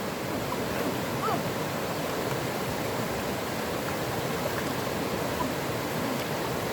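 Steady rush of flowing water, with a faint short pitched call about a second in.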